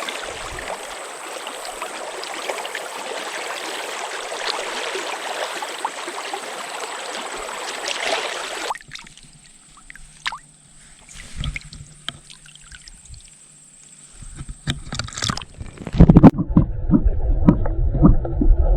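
Small stream flowing over riffles, a steady rush of water that cuts off abruptly about nine seconds in. A quieter stretch with a few scattered clicks follows, then loud low thumping near the end.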